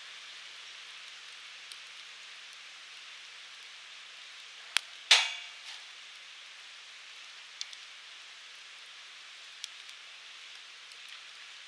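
Firewood burning in a fire pit, giving a steady soft hiss with faint crackles. A sharp pop comes about five seconds in, followed at once by a louder one that dies away quickly; a couple of smaller pops come later.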